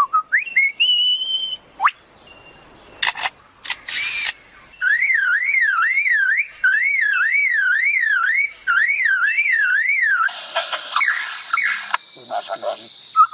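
Male lyrebird mimicking sounds: rising whistles and a few sharp clicks, then a siren-like tone warbling up and down about twice a second for several seconds, then a harsher, noisy sound.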